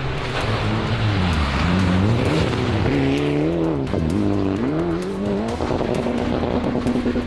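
Rally car engine revving hard. Its pitch drops and climbs again a couple of times as the driver lifts and gets back on the throttle, then holds a steady note near the end.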